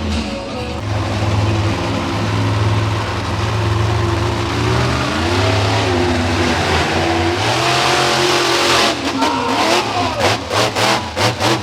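Monster truck engine revving hard, its pitch climbing and falling again and again, turning choppy in quick pulses near the end.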